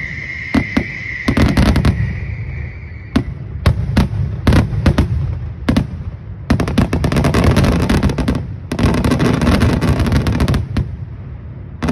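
Aerial fireworks going off in a rapid series of sharp bangs, with a steady whistling tone over the first couple of seconds. From about halfway through, the bangs come thick and fast with crackling between them.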